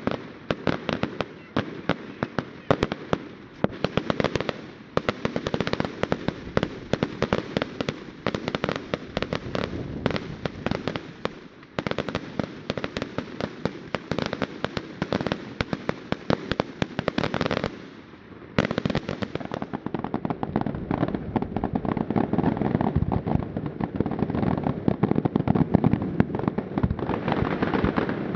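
Firework display: a rapid barrage of cracks and bangs, many per second, like crackling firecracker strings. It drops off briefly about two thirds of the way through, then resumes as a denser, lower mass of crackling and bangs.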